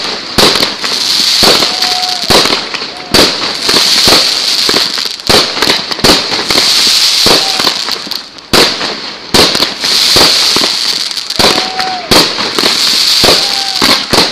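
Fireworks display: aerial shells bursting overhead in a rapid, irregular string of sharp bangs, over a steady crackling hiss.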